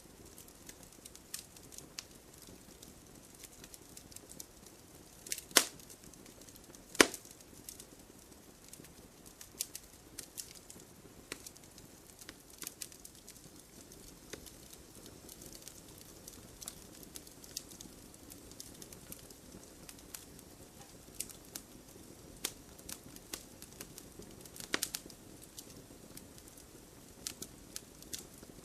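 Wood fire crackling in a fireplace: a soft steady hiss of burning with frequent small sharp pops, and a few louder snaps, two of them about 5 and 7 seconds in and another near the end.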